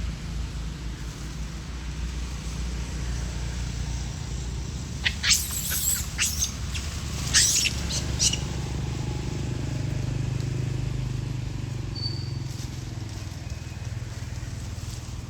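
Steady low rumble of a running vehicle engine, with a cluster of short, sharp, high squeaks or clicks about a third of the way in and a single brief high chirp later.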